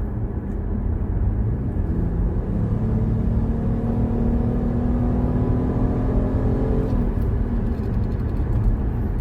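Ford Explorer running on the road, a steady rumble of engine and road noise, with the engine note rising slowly from about two and a half seconds in and fading out by about seven seconds.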